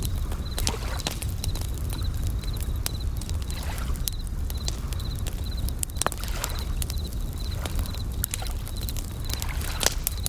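Bell crickets (suzumushi) chirping in short trills about once a second over the frequent snap and crackle of a campfire, with a low rumble and soft swells of ocean waves beneath.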